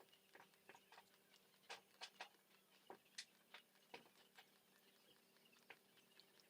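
Faint, irregular light clicks and ticks, a few a second, with a handful of slightly sharper ones in the middle.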